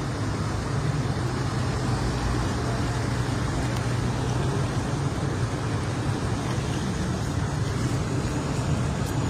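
A motor vehicle running: a low, steady engine hum under an even rushing noise.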